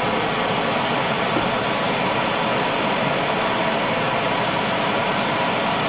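Small pneumatic right-angle grinder running steadily with no load, a continuous hiss of air with faint steady tones, while a torch heats its gearbox.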